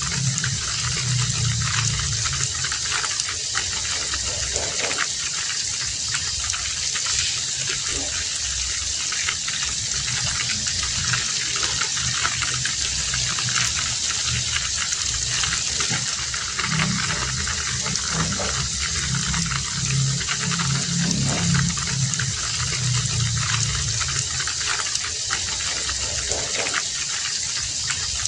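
Heavy rain falling steadily, a dense even hiss full of small drop impacts. A low rumble comes and goes beneath it, strongest near the start and again in the second half.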